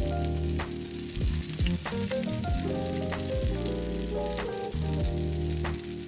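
Rack of lamb sizzling and spitting as it cooks, under background music with sustained notes that change every second or so.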